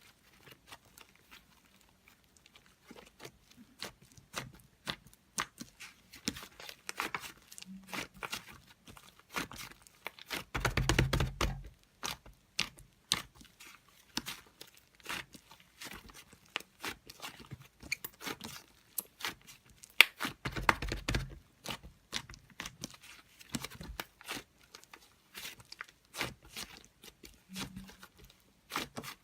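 Crinkling, tearing and scattered clicking, like something being handled and torn, with two short low rumbles about ten and twenty seconds in.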